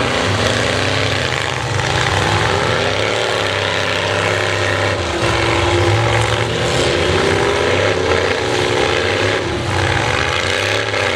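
Demolition derby cars' engines running together at high revs, their pitch rising and falling repeatedly as the drivers rev and let off.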